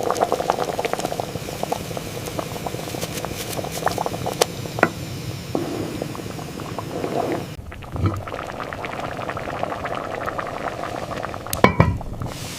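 Liquid bubbling and crackling on the heat, with a couple of low knocks, one about two-thirds through and one near the end.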